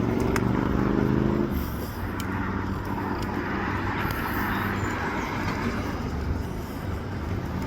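Motor vehicle traffic passing: an engine hum for the first second and a half, then a steady rush of road noise.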